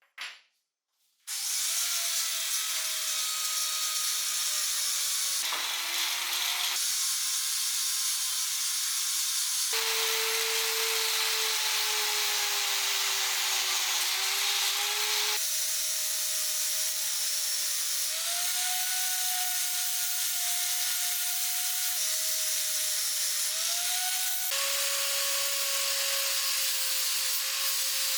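Electric power tool running steadily with a hissing scrape of abrasion, its motor pitch sagging and rising slightly under load. A brief click comes first, and the sound jumps several times where the footage is cut.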